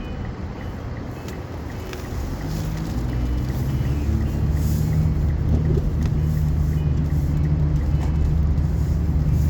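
Car engine and road noise heard from inside the cabin while driving: a steady low hum that grows louder about two to three seconds in.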